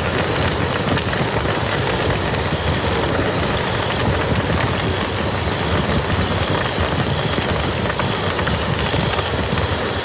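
Steady rush of a flowing river, with a campfire crackling now and then over it.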